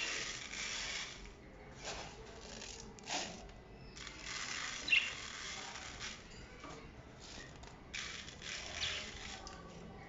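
Dry birdseed rattling as it is poured and shaken into feeder dishes, in several short bursts.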